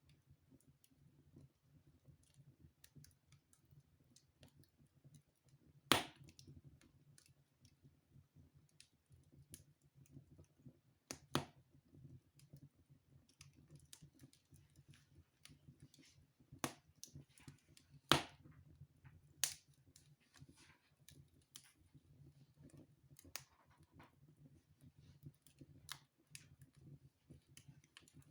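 Wood fire in a fireplace crackling: irregular small pops and clicks with a few louder, sharper snaps, over a faint steady low rumble.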